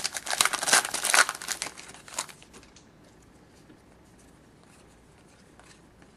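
A hockey card pack's wrapper crinkling and tearing as it is opened, in a dense crackle over the first two seconds or so, followed by a few faint ticks of cards being handled.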